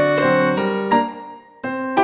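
Background music: a simple melody played on a piano-like keyboard, single notes struck one after another and left to ring, with a short lull about one and a half seconds in before the next note.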